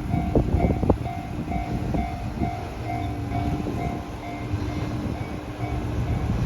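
KiHa 122 series diesel railcar running at the platform, its engine giving a steady low rumble, with a repeating two-tone ringing signal about twice a second.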